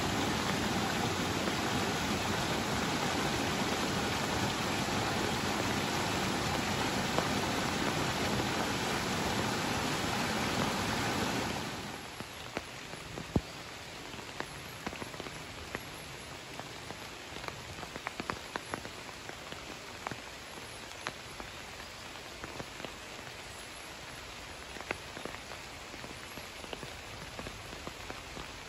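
Rain: a dense, steady rush for about the first eleven seconds, then it suddenly drops to a softer patter with single drops ticking sharply through it.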